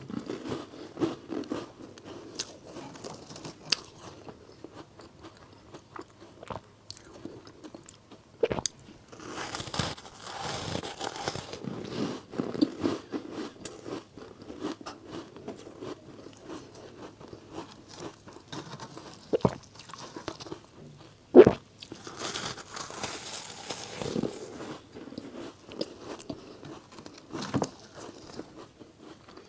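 Close-up biting and chewing of frozen matcha-powder ice: sharp crunches now and then, with stretches of gritty, powdery grinding between them. One crunch about three quarters of the way through is the loudest.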